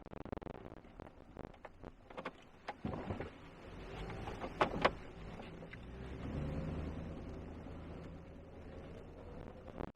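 Pickup truck on the move: a scatter of clicks and knocks, two sharper knocks about halfway through, then a low drone that swells and fades.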